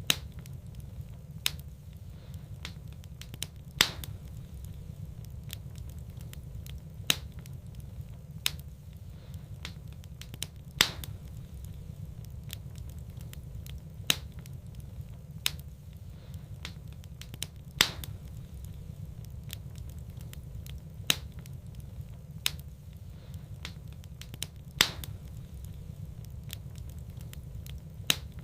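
Wood fire burning in a fireplace: sharp, irregular crackles and pops every second or two, a few louder snaps among them, over a steady low rumble.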